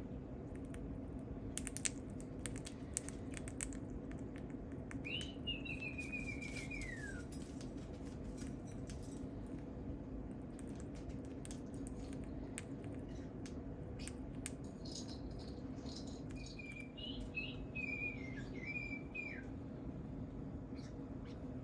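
Two whistled bird-like chirping phrases: one about five seconds in that slides down in pitch, and a choppier run of chirps near the end. Light scattered clicks and taps, and a steady hum underneath.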